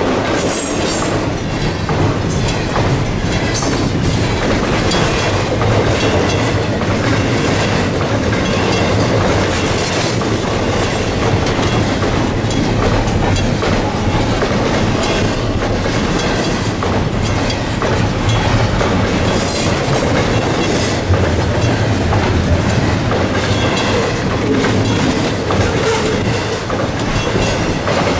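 CN double-stack intermodal freight train's container well cars rolling past close by: a loud, steady rumble of steel wheels on rail, with scattered clicks as the wheels cross rail joints.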